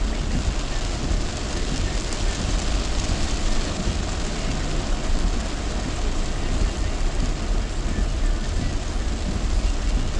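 Heavy downpour drumming on a moving car, over a steady low rumble of road and engine noise.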